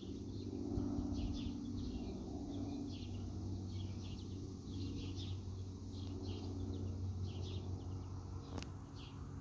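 Small birds chirping in the background, many short quick calls repeated throughout, over a steady low hum. A single brief click near the end.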